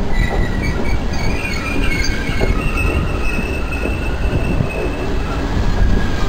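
A regional passenger train rolling past close by: a steady low rumble with high thin wheel squeal drawn out over several seconds, and a few short knocks as wheels cross rail joints.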